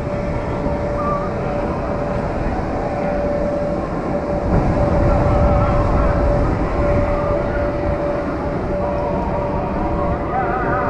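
A loud, steady mechanical rumble with a constant hum running through it, swelling around the middle.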